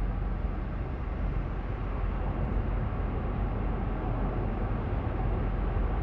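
Steady road and engine noise inside a moving car's cabin, a low rumble with an even hiss above it.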